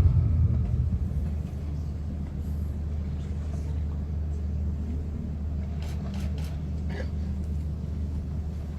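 Music fading out over the first second or so, then a steady low rumble with a few faint clicks.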